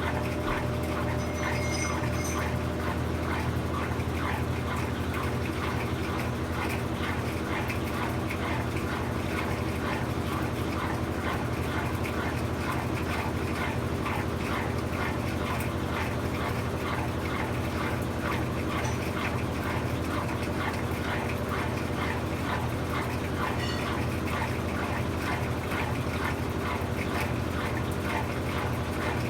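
Brastemp 17 kg washing machine running through its cycle: a steady low motor hum with a fast, continuous ticking rattle over it.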